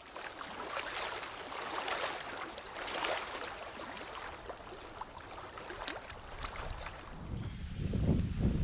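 Water splashing and lapping, in uneven swells. About seven seconds in, this gives way abruptly to a low rumble of wind buffeting the microphone.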